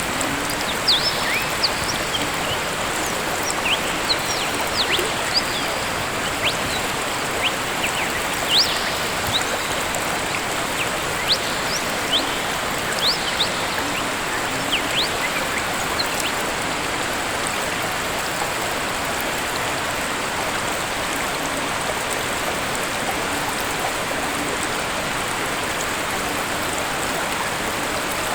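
Waterfall rushing steadily, with many short, high bird chirps during the first half.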